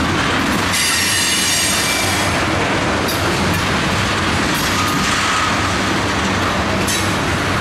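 Ethanol tank cars of a freight train rolling past, a steady rumble and clatter of wheels on the rails, with a high wheel squeal about a second in and shorter, fainter squeals later.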